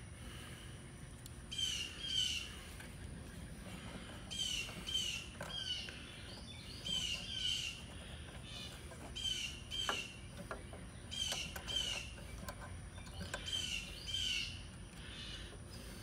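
A songbird singing short phrases of two or three chirps, repeated every two to three seconds. A few faint clicks come from wires and connectors being handled.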